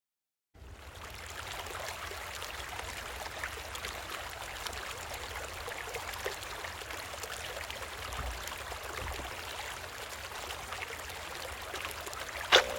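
Creek water flowing steadily, with a low rumble underneath. A single sharp click near the end.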